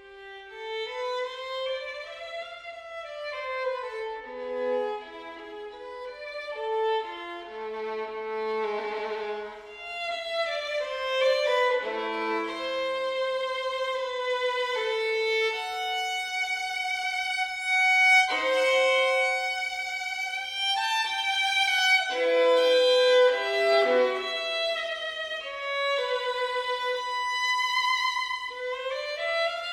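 Background music: a violin playing a slow melody of held notes with vibrato.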